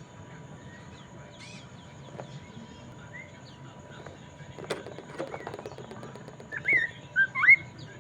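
Hwamei (poksay mandarin) singing: scattered short whistled notes, then a run of quick clicking notes about five seconds in. Near the end come a few loud, sharp whistles that swoop up and down.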